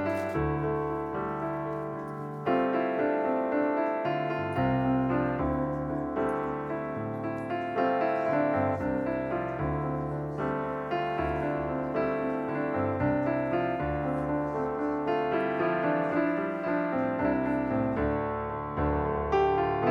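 Background music: a piano playing a steady run of notes over a low bass line.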